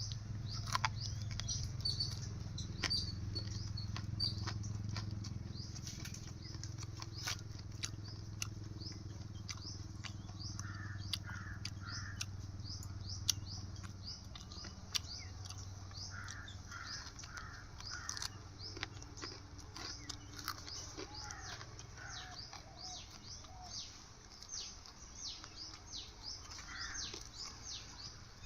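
Many small birds chirping rapidly and continuously, with a few lower calls in groups of three or four in the middle and scattered sharp clicks. A low hum sits under the first half and fades out about halfway through.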